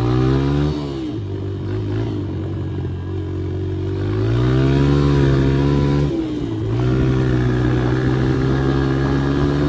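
Dirt bike engine pulling under throttle and shifting up: the pitch climbs, drops sharply with a gear change just under a second in, climbs again, drops with another shift about six seconds in, then holds steady.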